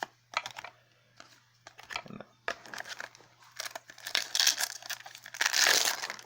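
Rustling and crinkling of foil booster-pack wrappers and trading cards being handled. It comes as many short crackles and clicks, with a longer, louder crinkle near the end.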